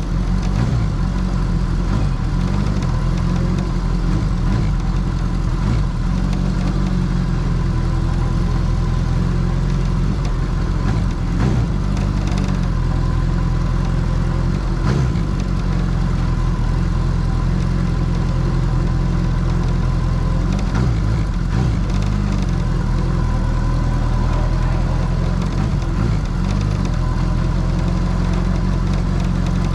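Kawasaki Zephyr 750's air-cooled inline-four engine running steadily at low revs, its pitch shifting briefly a few times.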